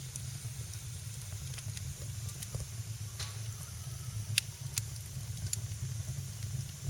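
Wood fire burning in a fireplace: a steady low rumble with scattered sharp crackles and pops, the loudest a little past the middle.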